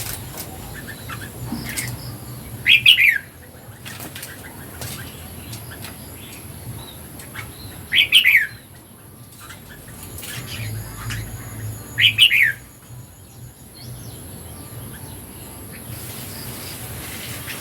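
Red-whiskered bulbul singing short phrases of quick falling notes, three times about four to five seconds apart, with faint ticks between.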